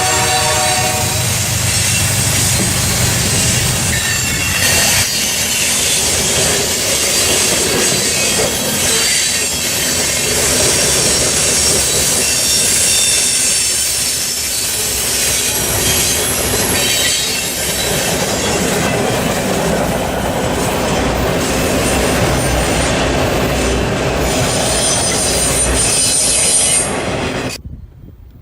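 A train passing close by, its cars and wheels rumbling and clattering over the rails with high wheel squeal at times. A horn sounds at the start and ends about a second in. The sound cuts off abruptly near the end.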